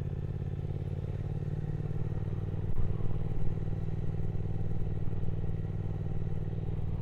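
Triumph Speed Twin 1200's parallel-twin engine running steadily in a low gear on a steep climb, with a brief swell in level about three seconds in.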